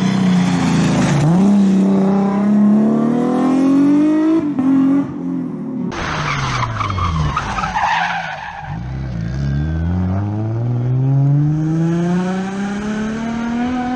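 Nissan 350Z rally car engine revving hard, its pitch climbing through the gears, with tyre squeal and skidding. About six seconds in the sound cuts abruptly; the engine then drops in pitch and climbs again in one long pull at full throttle.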